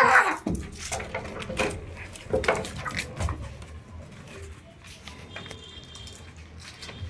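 Cats fighting: a loud cry right at the start, then scuffling with scattered knocks, scrapes and short cries.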